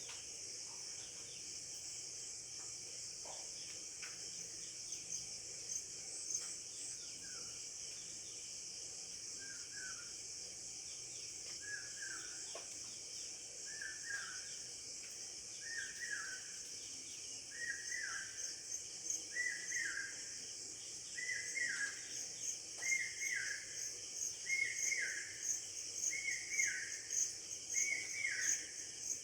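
A steady, high insect chorus, with a bird repeating a short, downward-slurred call about every two seconds from about ten seconds in, each call a little louder than the last.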